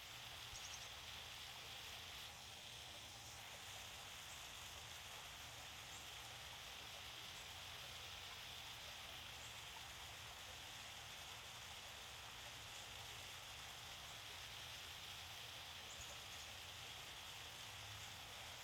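Small waterfall: a faint, steady rush of splashing water.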